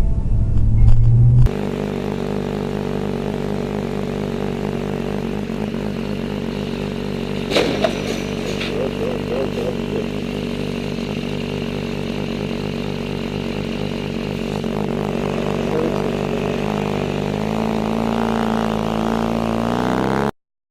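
A loud low rumble for the first second and a half, then a vehicle engine running steadily. There is a short knock about seven and a half seconds in. The engine pitch rises near the end as it speeds up, then the sound cuts off suddenly.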